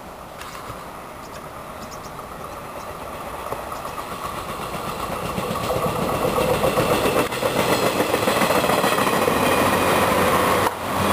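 JR 189 series electric multiple unit (set H81) approaching and passing: the rumble of its wheels on the rails grows louder for about six seconds, then holds loud and steady as the carriages go by, with a brief dip near the end.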